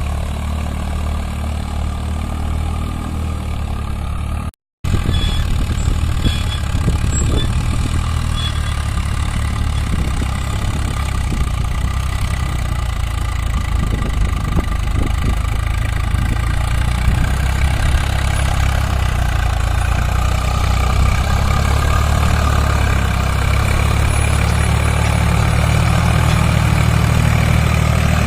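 Tractor diesel engines running steadily, broken by a brief moment of silence about four and a half seconds in. The engine sound grows slightly louder toward the end.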